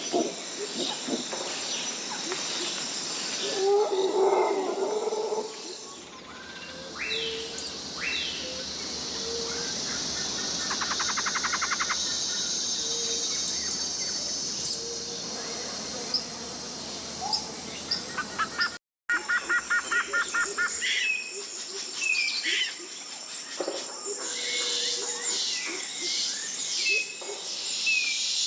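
Tropical rainforest ambience: a steady high buzz of insects, with various birds calling in short sliding notes, a rapid trill, and short low hoots. The background changes abruptly several seconds in and again about two-thirds through, with a brief dropout, as one recording gives way to the next.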